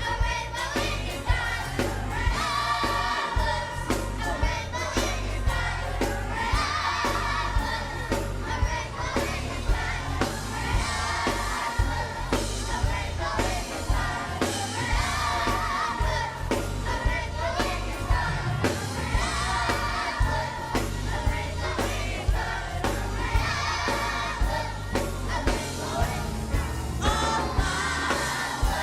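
A youth choir singing a gospel song over a full band backing with a steady drumbeat.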